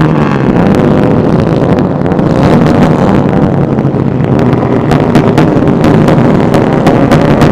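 Motorcycle engines running, with heavy wind noise on the microphone; the engine's regular firing pulses come through more clearly from about five seconds in.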